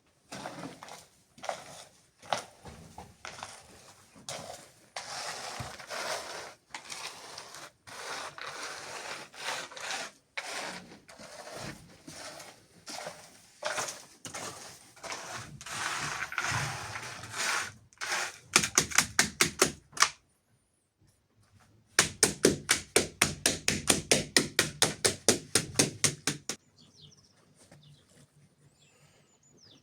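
Irregular scraping and knocking. Later come two runs of rapid, evenly spaced sharp knocks, about seven a second, the second run lasting about four seconds.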